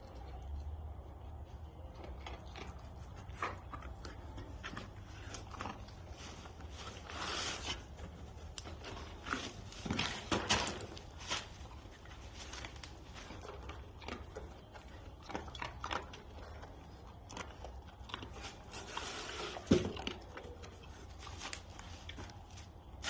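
A Staffordshire bull terrier sniffing and snuffling in short, irregular bursts, with scattered small clicks and scuffs and one sharper knock near the end.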